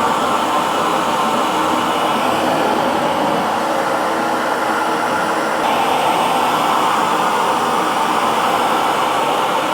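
Hair dryer running steadily, a continuous rush of blown air with a motor hum; its tone turns slightly brighter a little past halfway.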